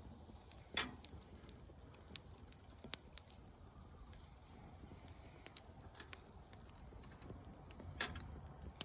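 Wood fire of slabs and split firewood burning in a fire pit, crackling with scattered sharp snaps. Two louder pops come about a second in and near the end.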